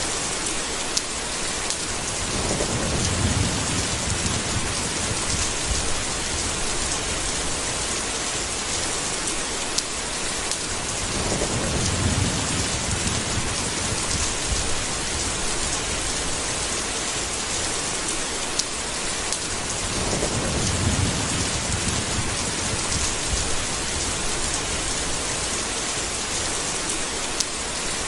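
Steady heavy rain hissing throughout, with low rolling thunder rumbling three times, each rumble lasting several seconds.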